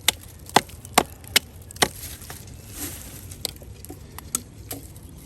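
Chopping into pine wood to expose resin-soaked fatwood: five sharp strikes about every half second, then a few lighter knocks near the end.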